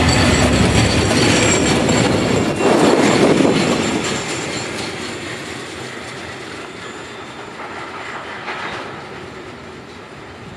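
Freight train wagons rolling by on the rails, with thin high wheel-squeal tones. The train is loudest in the first few seconds, then fades steadily as it moves away.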